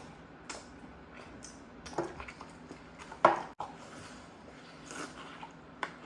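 Close-miked mouth sounds of a person eating a burger: wet chewing, lip smacks and small clicks, with one louder smack about three seconds in.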